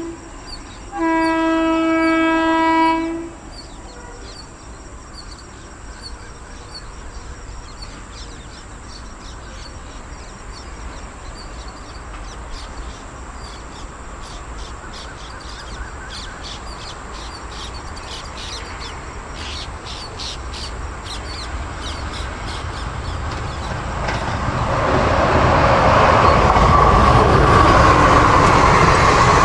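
An electric locomotive's horn sounds one long blast, followed by the slowly growing rumble of an approaching express train. Near the end the train passes at full speed with a loud, steady rush of wheels on rails. Birds chirp faintly during the approach.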